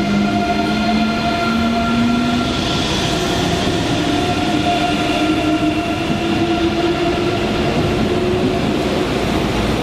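Electric train running through a station, with a steady high electrical whine over the rumble of the wheels and a low motor tone that rises slowly in pitch as the train accelerates.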